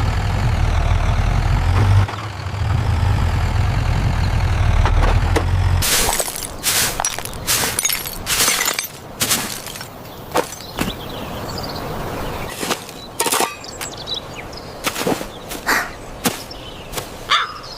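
Cartoon sound effects: a vehicle engine rumbles with a wavering, siren-like tone over it for about six seconds. Then comes a string of sharp cracks and clattering impacts, like things breaking.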